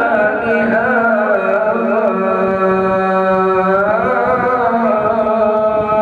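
A man reciting the Quran in a melodic chant, drawing out long held notes with slow ornamented turns of pitch and a glide about four seconds in.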